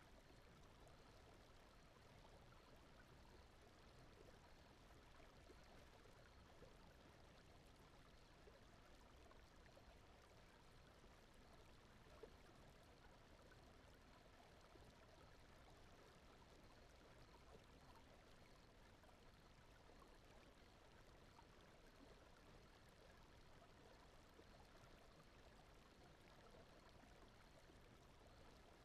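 Faint, steady rushing noise like a gently flowing stream: the video's soft water or brown-noise sleep bed, unchanging throughout.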